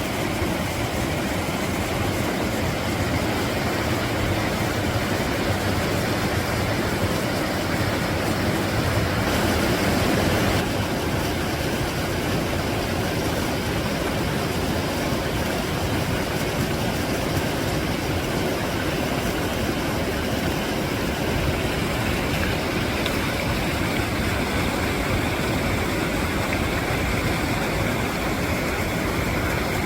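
Mountain valley stream flowing: a steady rush of water, a little louder for about a second around nine seconds in.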